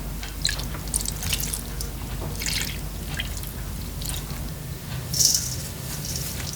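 Liquid dripping and splashing in short, irregular bursts, the loudest about five seconds in.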